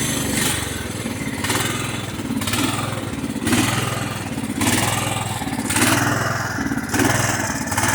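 Lawn tractor's 16.5 hp Kohler Command engine running under load while mowing. Its sound swells and fades in a regular rhythm about once a second: the pulsing the owner notices in an otherwise well-running engine.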